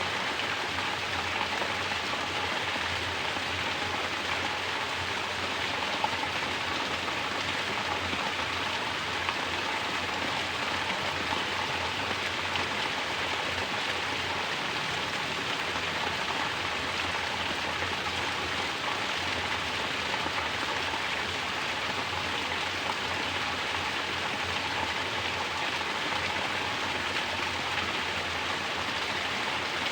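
Mountain water falling as a natural shower and splashing steadily, an even, unbroken patter of water.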